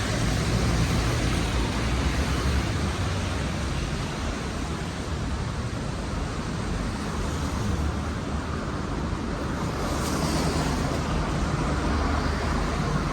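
Steady city traffic on rain-wet streets: a low engine rumble under a washing tyre hiss, with a brighter hiss about ten seconds in as a vehicle passes.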